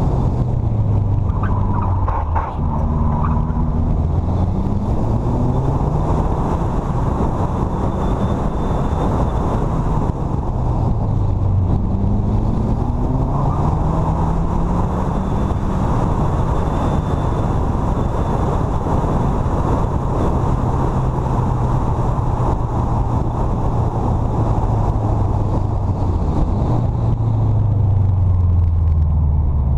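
2005 Subaru WRX's turbocharged flat-four engine pulling through the gears, heard from inside the cabin over loud road and wind noise. The revs climb and drop back at each gear change, hold steady for a long stretch, then fall away near the end.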